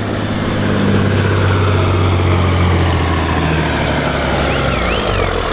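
Semi truck's diesel engine running hard under load as it pulls the weight sled, with a faint high whine that rises and falls. The engine is loudest a second or so in and eases off near the end.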